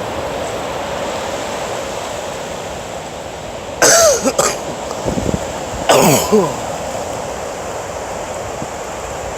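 Steady rush of surf and wind, broken about four and six seconds in by two short, loud vocal sounds that fall in pitch.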